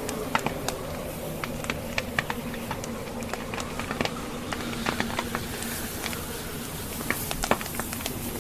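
Wood fire crackling in a fireplace, the logs giving off irregular sharp snaps and pops over a steady rush of wind.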